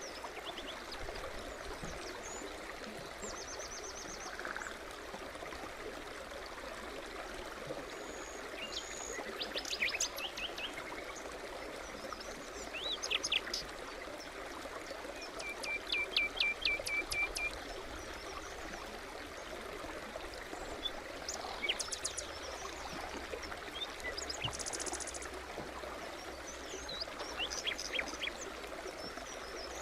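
Forest stream babbling steadily, with songbirds chirping and trilling at intervals over it; the loudest call is a fast run of repeated notes about sixteen seconds in.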